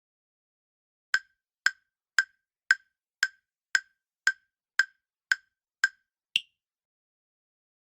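Quiz countdown-timer sound effect: ten short, even ticks about two a second, then a single higher-pitched final tick as the time to answer runs out.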